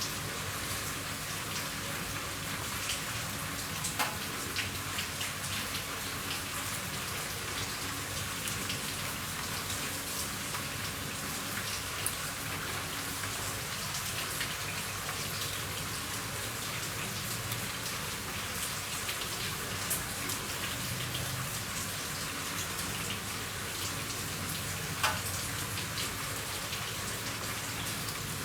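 Steady rain falling on a roof, an even patter with scattered sharper drips, the loudest about four seconds in and near the end.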